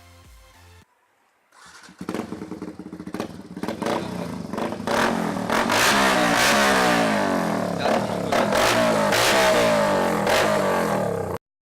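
Yamaha R15 V2's single-cylinder engine through a Pro Liner aftermarket exhaust, revving hard with the pitch climbing and dropping again and again. It starts about two seconds in after a brief silence and cuts off abruptly near the end.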